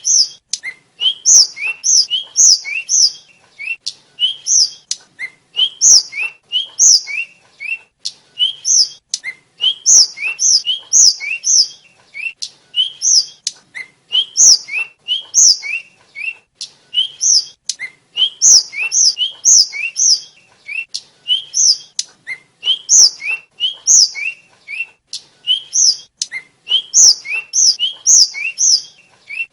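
Tledekan, a blue flycatcher, singing continuously. Its song is quick chirping phrases, each a few short rising lower notes followed by louder high notes, repeated about once a second.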